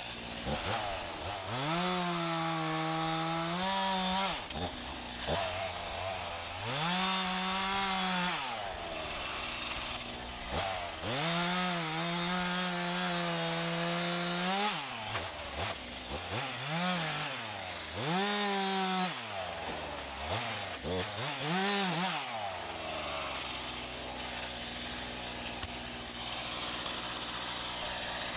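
Two-stroke chainsaw cutting dead white elm wood. The engine revs up to full speed and drops back to idle about six times, each rev lasting one to four seconds, then idles steadily for the last few seconds.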